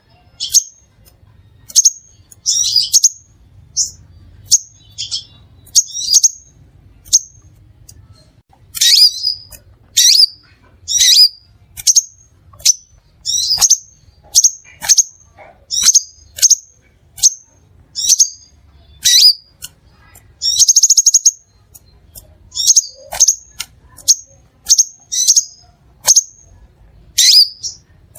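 Crimson sunbird calling: short, sharp, high chirps repeated about once or twice a second, broken now and then by a longer chattering trill.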